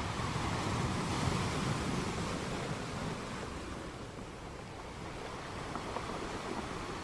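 Sea surf: a continuous wash of waves that swells over the first couple of seconds and eases off around the middle.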